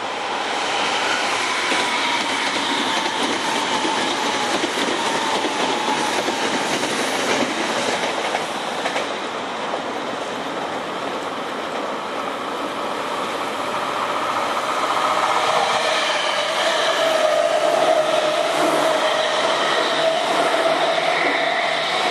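Electric trains running past on the nearby tracks: a continuous rumble of wheels on rail with clickety-clack over the rail joints. A whine sinks slowly in pitch over the first several seconds, and a lower steady whine comes in about two-thirds of the way through as another train draws level.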